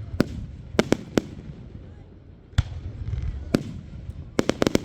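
Fireworks exploding in sharp bangs at uneven intervals, with a quick run of about five cracks near the end, over a low rumble.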